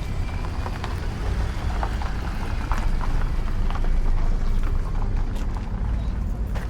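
Steady low rumble of a running vehicle, with scattered light clicks and taps over it.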